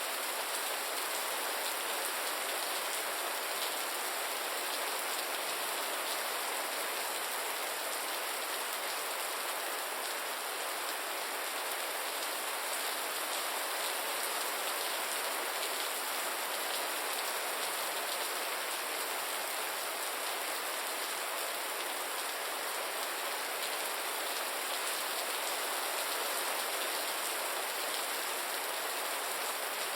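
Steady gentle rain: an even hiss of many small drops falling without a break.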